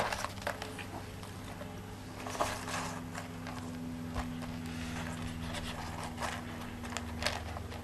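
Light, scattered taps and clicks of small craft decorations being handled and repositioned on a canvas, over a steady low hum.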